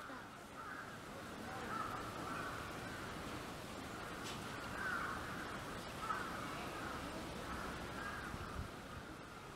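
Birds calling again and again, short bent call notes overlapping, over steady outdoor background noise.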